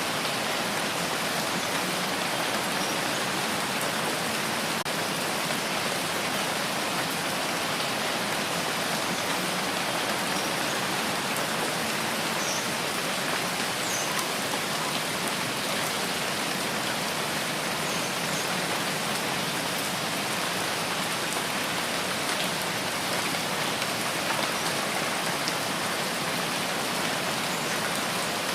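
Steady rain, an even hiss of falling rain with a few faint drips. It holds constant, with no rise or fall.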